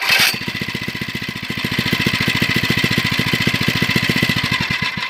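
Mini bike's small single-cylinder engine catches suddenly and runs for about five seconds at a fast, even firing beat, then cuts out abruptly. It is a brief run from an engine that has been refusing to start.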